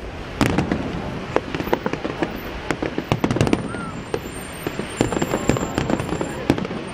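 Aerial fireworks display going off: a dense, irregular run of sharp bangs and crackles over a continuous rumble, busiest about five to six seconds in.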